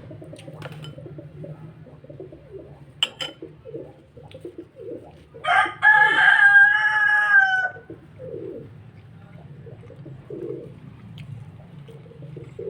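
A loud, drawn-out bird call lasting about two seconds, beginning about five and a half seconds in and dipping slightly in pitch at its end, over a steady low hum.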